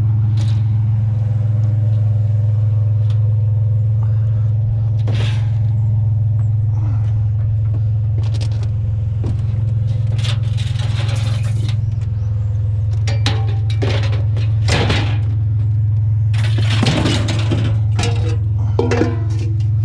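A vehicle engine idling with a steady low hum, while junk is handled with scattered knocks, clatter and scrapes that grow busier in the second half.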